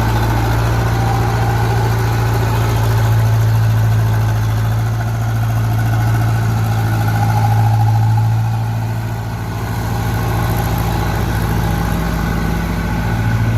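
Renault tractor's diesel engine running steadily at low speed, with a brief dip in loudness about nine seconds in.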